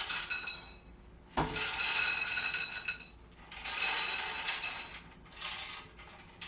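Crispy air-fried chickpeas rattling and clinking against a metal basket and utensil as they are moved, in four or five short spells, one starting with a sharp clink about a second and a half in.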